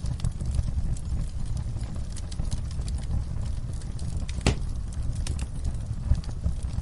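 Wood fire crackling in a fireplace: a steady low rumble of burning with scattered small pops, and one sharper pop about four and a half seconds in.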